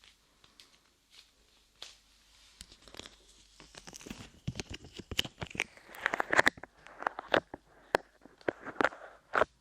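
Light clay being squished and pulled apart close to the microphone: sticky crackling with irregular clicks, faint at first, then denser and louder from about four seconds in.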